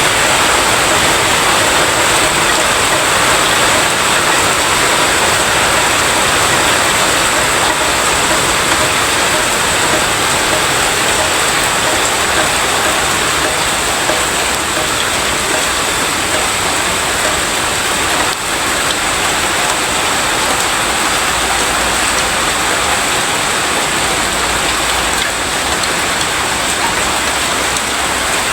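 Steady rain falling and spattering on surfaces, a dense even hiss, with a thin steady high-pitched tone throughout.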